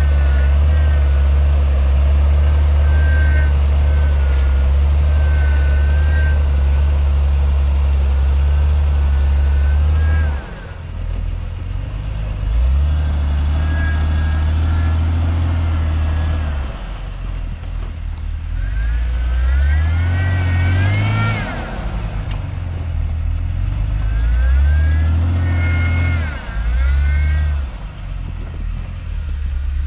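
Off-road 4x4's engine running steadily under load, then revving up and easing off several times as it works along a snowy trail. A higher whine rises and falls with the revs.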